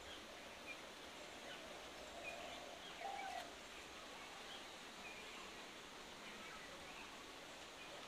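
Faint outdoor ambience with scattered short bird chirps and a brief lower bird call about three seconds in.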